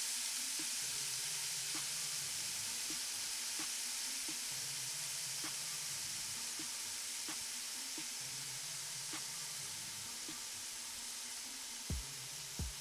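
Chicken tenders frying in oil in a pan: a steady high sizzle with faint crackles that eases off slowly. A few soft knocks near the end.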